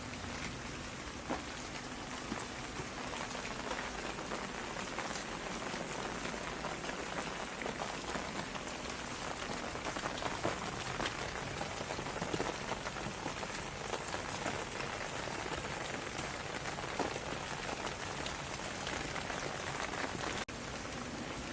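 Steady rain falling on a hard surface: a dense patter of separate drop hits over an even hiss.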